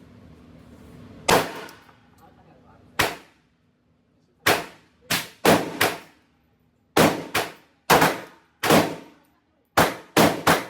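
Pistol shots from a 9mm Glock 45 at an indoor range: about fourteen sharp shots, some single and some in quick doubles and triples, each followed by a short ringing echo.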